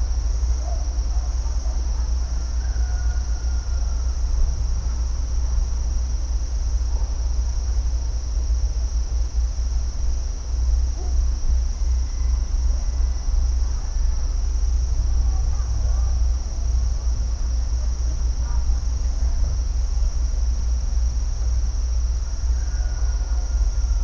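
Nature ambience: a steady insect chorus holding one high pitch, over a constant low rumble, with a few faint short chirps now and then.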